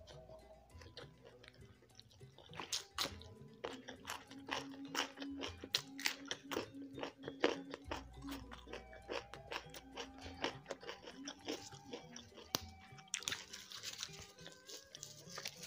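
Close-miked chewing: a long run of sharp crunches and wet mouth clicks as a mouthful of rice and side dishes is chewed. Near the end comes a hissy rustle as fresh leafy greens are handled.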